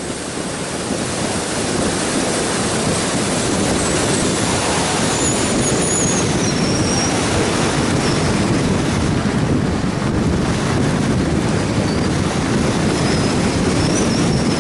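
Wind rushing and buffeting over the action camera's microphone in flight, a loud steady roar with faint high thin whistles coming and going.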